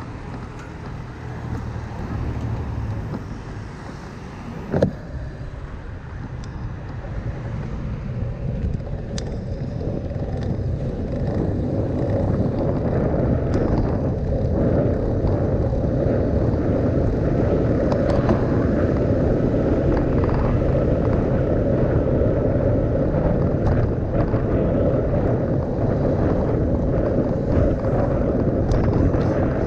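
Steady rushing noise of a bicycle ride through city traffic, swelling louder from about eight seconds in and then holding. A single sharp knock comes about five seconds in.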